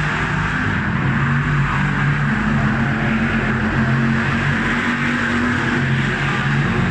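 Motor vehicle engine running steadily, its pitch stepping up and down as the engine speed changes.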